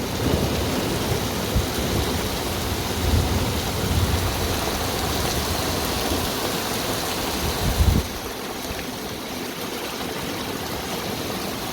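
Heavy rain pouring down steadily in a thunderstorm, with thunder rumbling low underneath for the first two-thirds and stopping abruptly about eight seconds in, after which only the rain's hiss remains.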